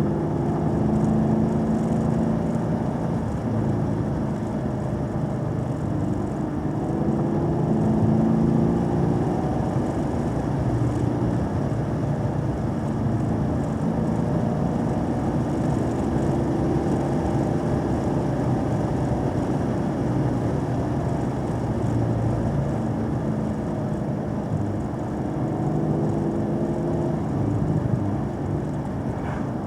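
Car engine running under varying throttle, its pitch rising and falling repeatedly, over steady road and wind noise.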